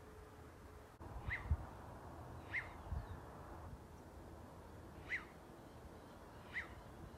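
A bird giving short, sharp chirping calls, four in a row a second or more apart. A couple of low thuds come in the first few seconds.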